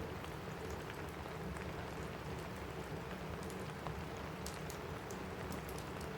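Steady rain falling on a roof: a continuous even rush with scattered faint sharp ticks of drops or small crackles.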